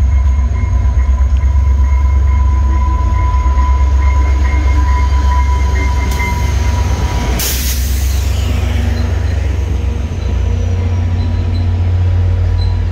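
Via Rail passenger train arriving: the EMD F40PH diesel locomotive rumbles past close by, then the stainless-steel passenger cars roll by on the rails. A steady high whine lasts through the first half, and a brief loud hiss comes about seven and a half seconds in.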